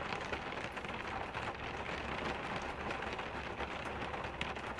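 Steady rain falling on a minivan, heard from inside, a continuous patter with many individual drops ticking on the roof and windows.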